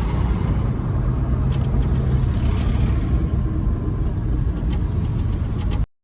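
Loaded delivery truck driving, its engine and road noise a steady low rumble. The sound cuts off suddenly near the end.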